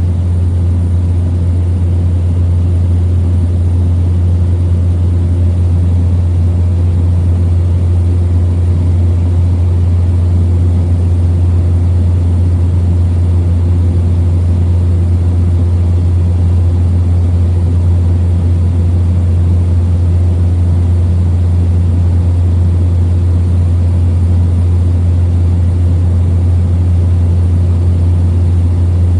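Small propeller plane's engine and propeller droning steadily in flight, heard inside the cabin: a loud, deep, unchanging hum.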